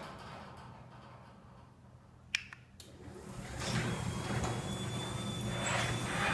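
A sharp click about two seconds in, then a garage door running steadily, with a low motor hum and a thin high whine, now that its pulleys have been replaced.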